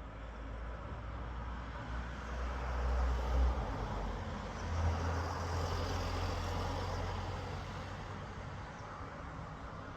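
A road vehicle passing by: a rushing noise that swells to a peak in the middle and fades away toward the end, over a low rumble.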